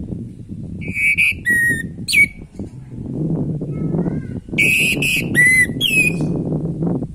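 Orange-headed thrush (anis merah) singing: two short phrases of clear whistled notes with quick pitch glides, one about a second in and another about halfway through. A steady low rumble runs beneath.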